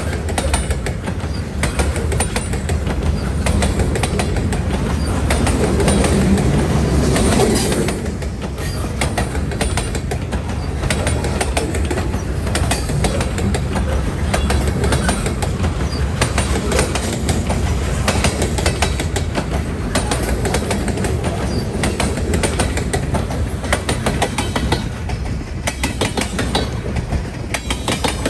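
Freight train cars rolling past, wheels clicking steadily over the rail joints, a little louder for the first eight seconds or so.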